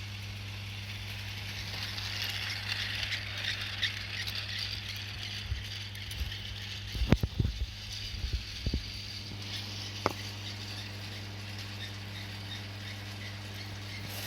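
Toy train set running, a steady low motor hum under a light high rattle of the cars along the track. A few sharp clicks and knocks come in the middle.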